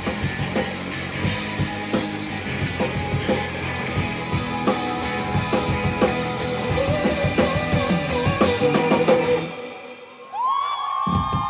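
Live rock band music with a drum kit and a singing voice, ending about nine and a half seconds in. A moment later the audience starts cheering and screaming.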